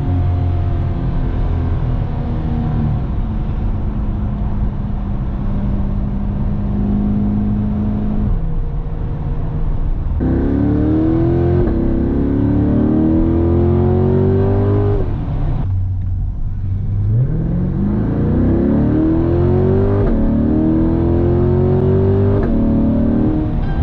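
Chevrolet Corvette C8 Stingray's mid-mounted 6.2-litre V8, heard from the driver's seat. It cruises steadily at first, then accelerates hard up through the gears: the engine note climbs several times, each climb cut off by a quick drop in pitch at the upshift.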